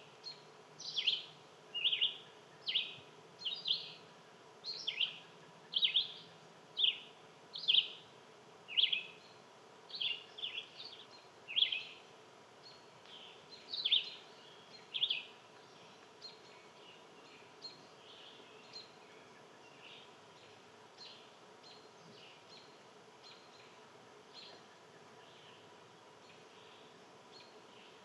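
A bird calling with a long series of short, sharp chip notes, about one a second, loud for the first half and then fainter and more scattered.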